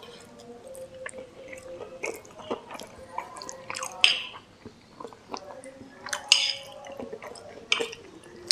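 Close-miked chewing of fried noodles and fried tofu, with short clicks of a metal spoon scooping in a ceramic bowl; the loudest come about four and about six seconds in.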